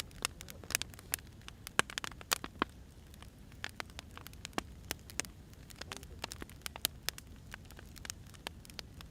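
Firewood burning: irregular sharp crackles and pops over a low steady rumble, busiest in the first three seconds.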